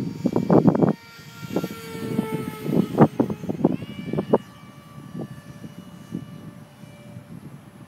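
Whine of an electric ducted-fan RC jet in flight, its pitch shifting and rising once about halfway through, under loud, irregular low rumbling knocks that die down in the second half.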